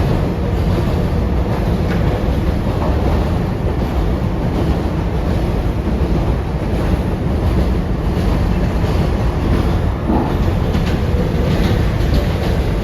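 Inside an R142A subway car running between stations: a steady rumble of wheels on rail and running gear, with a few sharp clicks over rail joints near the end.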